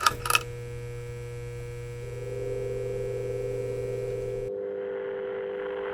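Two quick clicks, then a steady electronic drone of held tones with a low hum beneath. The hum and the upper hiss cut off suddenly about four and a half seconds in, leaving only the held tones.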